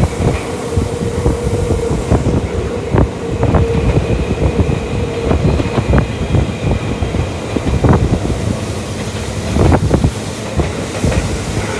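Electric commuter train of the Tokyu Toyoko Line running at speed: a dense low rumble with frequent, irregular clacks of the wheels over the rails, and a faint steady tone for much of the time.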